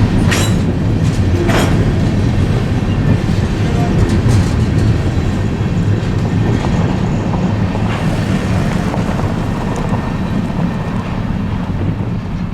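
Freight train rolling past: a steady, loud rumble, with wheels clicking over rail joints, two sharp clicks in the first two seconds.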